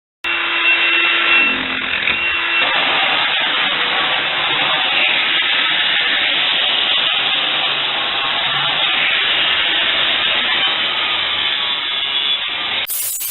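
Steady, loud noise of a saw cutting during plumbing installation work, starting abruptly a moment in.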